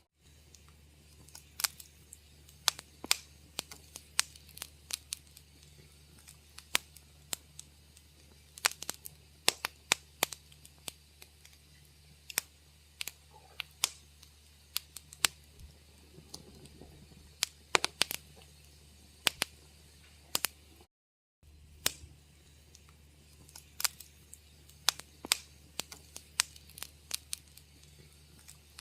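Wood fire crackling in a fireplace: irregular sharp pops and snaps over a low steady hum. The sound cuts out completely for a moment about twenty seconds in.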